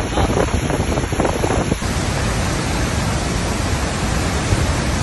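Heavy storm rain pouring down as a loud, steady rushing noise. There is an abrupt change just under two seconds in, after which the rush is smoother and more even.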